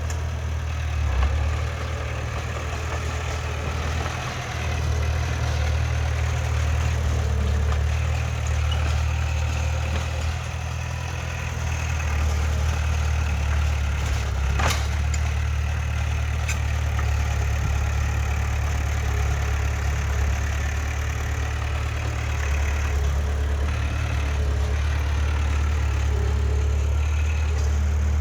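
Heavy diesel engine of earthmoving machinery running steadily with a low hum, with a single sharp knock about halfway through.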